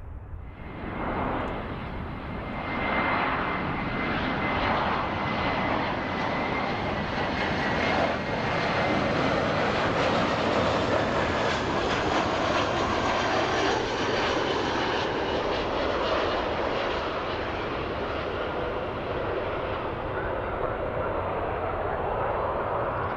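Aircraft engines running as a plane passes. The roar swells about a second in and eases slightly near the end, with a faint steady high whine through most of it.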